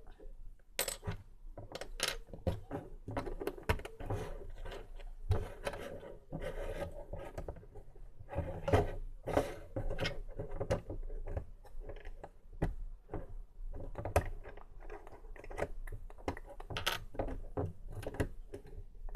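Plastic Lego bricks being handled and pressed together: many small sharp clicks and rattles at irregular intervals, with light scraping of parts between them.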